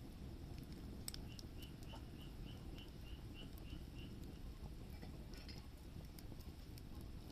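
Firewood fire crackling faintly, with scattered sharp pops over a steady low rumble. A bird calls a quick run of about ten evenly spaced high notes, roughly three a second, in the first half.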